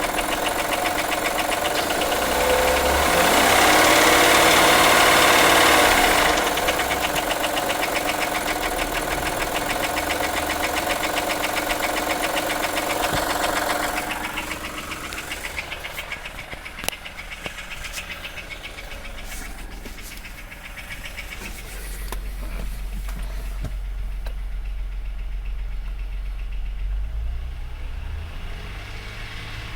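The 2003 Acura MDX's 3.5-litre V6 running with a knock. It is louder for a few seconds near the start, then quieter from about halfway, with scattered sharp ticks. A dealership took the knock for a bad wrist pin or rod bearing, and the engine is misfiring on all six cylinders.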